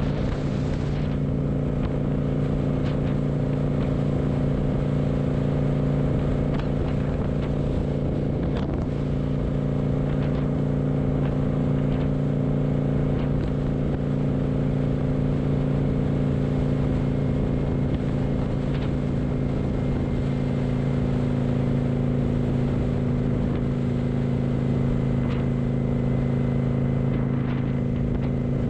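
Kawasaki motorcycle engine running at a steady speed while riding, its pitch holding level, with wind rumble on the microphone.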